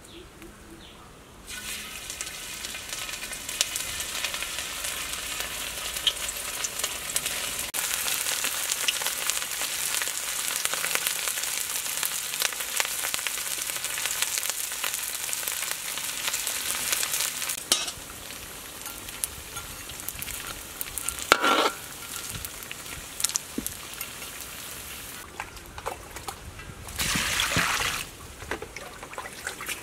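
Palm-leaf cakes of glutinous rice deep-frying in hot oil: a loud, dense sizzle sets in about a second and a half in, when the cakes go into the oil, and eases to a softer sizzle a little past halfway. Near the end there is a short burst of water splashing as vegetables are washed in a bowl.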